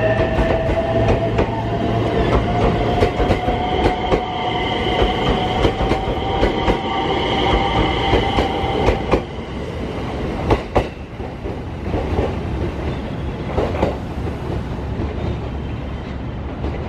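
Electric train pulling through the station, its motors giving a whine that slowly rises in pitch and then stops about nine seconds in, while the wheels click over the rail joints. There is one sharp knock near eleven seconds.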